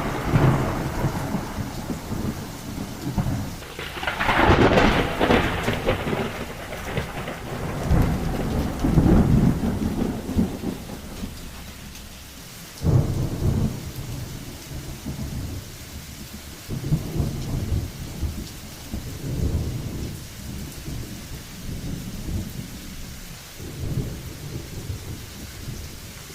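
Thunderstorm: steady rain with rolls of thunder every few seconds, the loudest about four seconds in.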